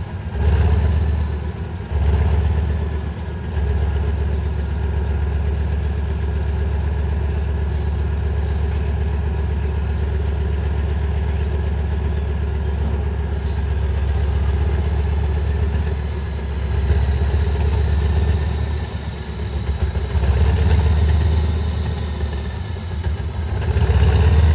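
Diesel locomotive engine running with a deep, steady rumble, swelling louder a few times in the second half.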